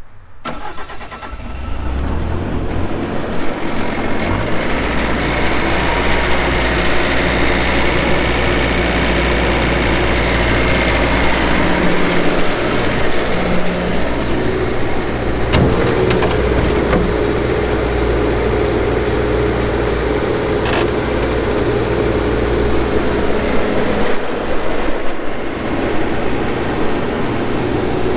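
Bobcat T630 compact track loader's diesel engine being started, catching within the first couple of seconds, then running steadily. Engine speed rises about four seconds in, and a steady whine joins about halfway through.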